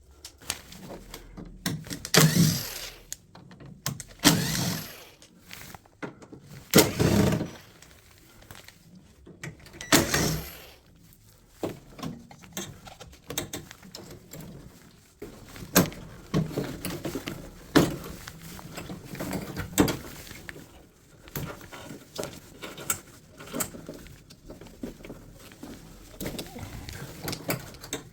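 Irregular knocks, clunks and short rattles of a drum washing machine's panels and parts being handled and worked loose during disassembly, with several louder thunks in the first ten seconds.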